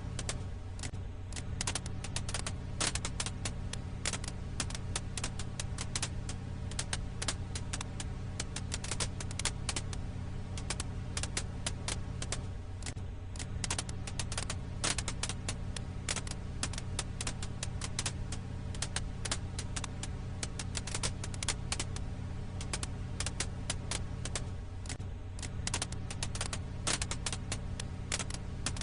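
Wood fire crackling: dense, irregular pops and snaps over a steady low hum, a looped ambience track that repeats about every twelve seconds.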